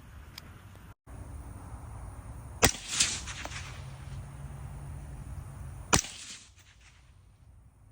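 Two suppressed shots from a 16-inch 5.56 rifle fitted with a SilencerCo Omega 300 suppressor, about three seconds apart; the first is followed a moment later by a second, softer crack.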